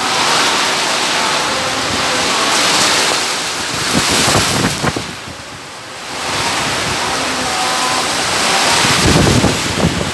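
Storm wind blowing hard along with surf breaking on the shore, gusting onto the microphone with low rumbles. It eases briefly about halfway through.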